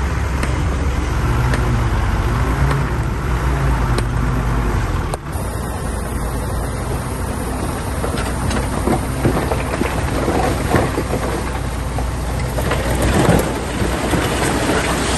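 Bulldozer diesel engine running under load with a low drone. About five seconds in, the sound changes abruptly to a noisier mix with repeated knocks and rattles, loudest near the end.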